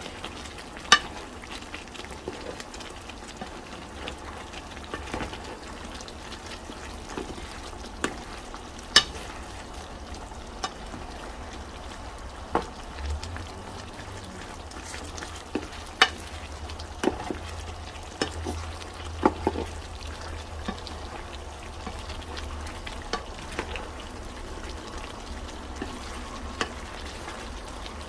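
Chicken pieces sizzling and bubbling in a pan of thickening orange-chicken sauce as it is stirred, with a steady hiss and the utensil knocking sharply against the pan now and then at irregular times.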